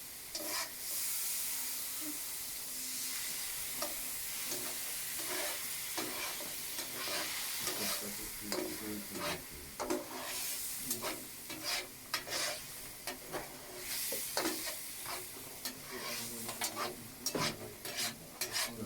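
Thick game sauce sizzling in a pan, reduced until almost all the liquid has cooked off, while a spoon stirs it with many short scraping strokes against the pan.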